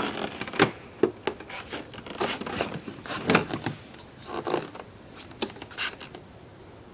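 Irregular clicks, knocks and short rasping noises, with no engine running.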